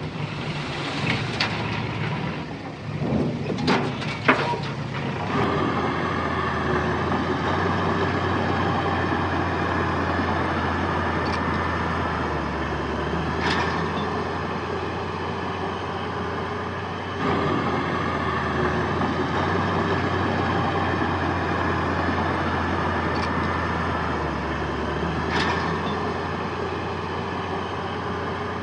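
Heavy diesel earthmoving machinery at work. A few sharp metallic clanks sound in the first few seconds. From about five seconds in, a steady engine drone takes over, with two brief high squeaks later on.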